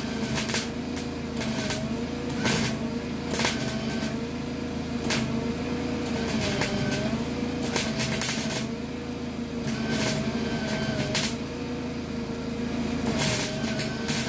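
Small 120-volt wire-feed welder laying short tack bursts into rusty sheet metal: the arc crackles and pops in brief spurts each time the trigger is pulled and released, over the welder's steady hum. The popping comes from welding over rust.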